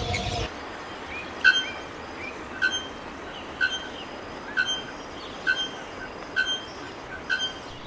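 A bird repeating a short, sharp call note about once a second, over a steady background hiss of forest ambience.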